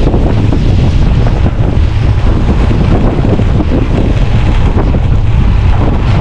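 Wind buffeting the microphone of a rider on a moving bicycle: a loud, steady low rumble.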